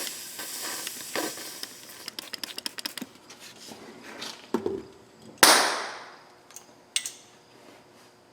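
Crackling and popping of rust and scale as an oxy-acetylene torch heats a seized, rusted exhaust manifold stud. About five seconds in comes a sharp, loud pop with a hiss that dies away over about a second, followed by a single click.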